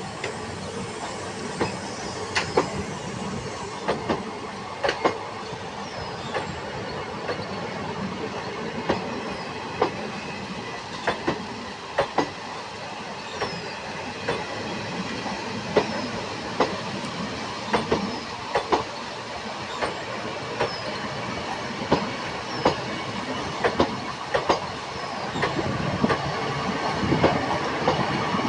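Train rolling past on the track, its wheels clattering over rail joints in a regular clickety-clack over a steady rolling rumble, louder near the end.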